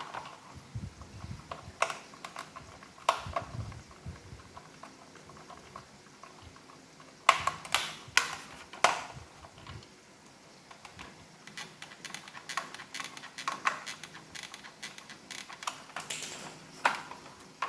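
Plastic parts of an iRobot Roomba robot vacuum being handled and clicked into place during reassembly: scattered sharp clicks and knocks, with several close together about seven to nine seconds in and a run of lighter taps in the last few seconds.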